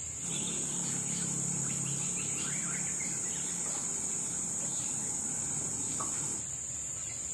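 Steady high-pitched insect drone that is louder for the first six seconds and then eases. Short bird chirps sound over it, with a low hum underneath.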